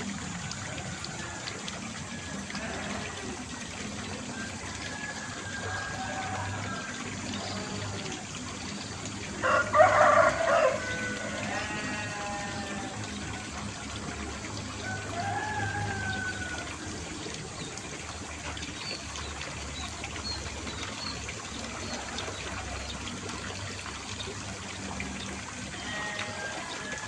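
Water trickling and running steadily, with one brief loud call about ten seconds in and a few faint short calls scattered through.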